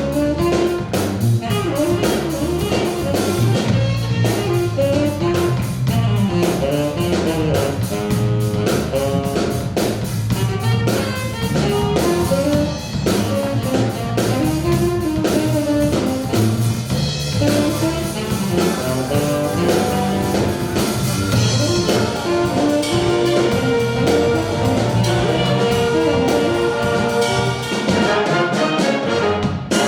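School jazz stage band playing a funk tune: brass section with trumpets and trombones over a drum kit.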